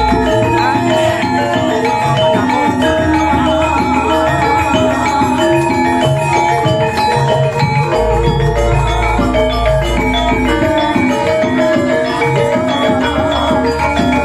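Javanese gamelan ensemble playing: a dense pattern of mallet-struck bronze metallophones over a held low tone. A deep gong tone swells about eight seconds in and fades out a couple of seconds later.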